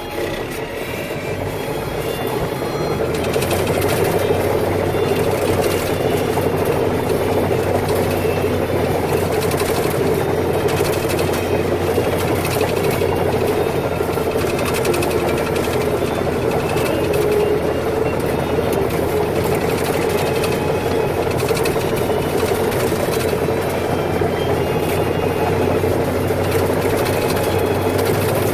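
Agricultural tractor engine running steadily under load, growing louder over the first few seconds and then holding.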